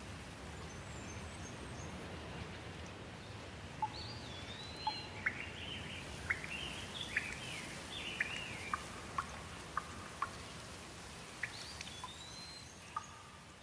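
Steady rain falling, with birds chirping and calling over it from about four seconds in.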